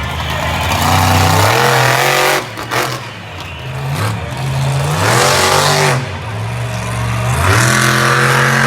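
Monster truck engine revving hard, its pitch climbing and dropping again and again as the throttle is worked, with a brief lull about three seconds in.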